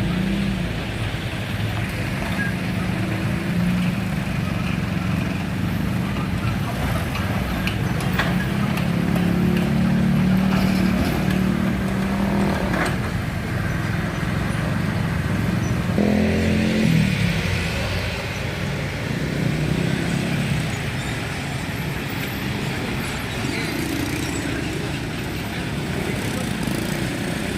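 Road traffic: motor vehicle engines, cars and motorcycles among them, running and passing steadily. About 16 seconds in, one engine's note falls in pitch.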